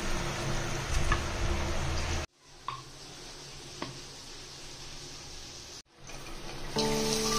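Sliced okra frying in hot oil, a steady sizzle; after a sudden cut, a quieter stretch with a couple of light clicks. Near the end a loud sizzle starts as chopped onion and tomato go into hot oil.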